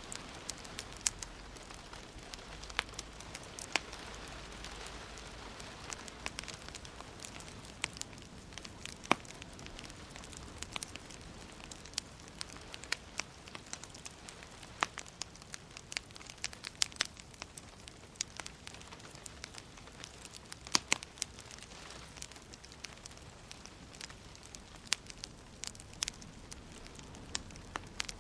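Wood fire in a fireplace crackling: irregular sharp pops and snaps, a few of them loud, over a steady soft hiss.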